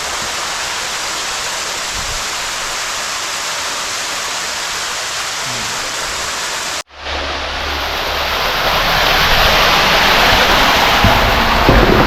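Water rushing steadily through a storm drain tunnel. About seven seconds in the sound cuts out for an instant and comes back louder, the rush building with a low rumble.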